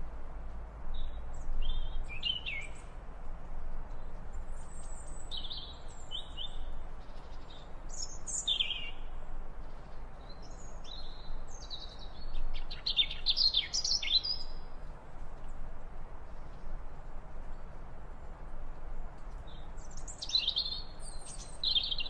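Small birds chirping and singing in short, varied phrases, in scattered clusters with a busier burst of song about halfway through, over a steady background hiss.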